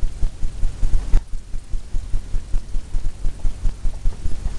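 Paintbrush patting and stroking on a stretched canvas: a fast, even run of soft low thumps, about five a second.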